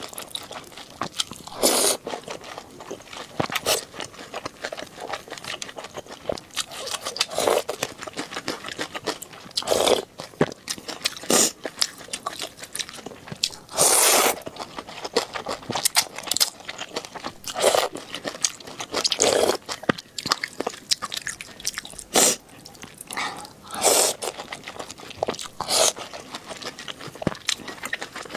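A person eating with the microphone close: crunchy bites and chewing, in irregular bursts every second or two.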